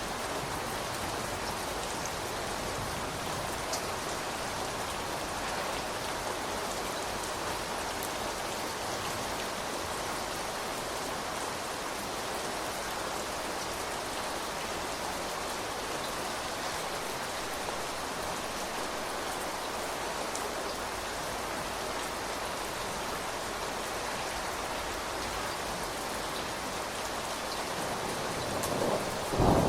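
Steady rain falling, an even patter of raindrops on surfaces. In the last second or two a rumble of thunder begins to build and grow louder.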